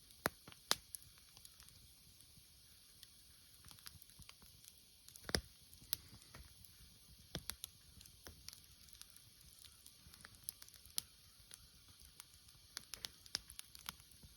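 Wood fire crackling: irregular sharp pops and snaps over a faint steady hiss, a few louder pops among them.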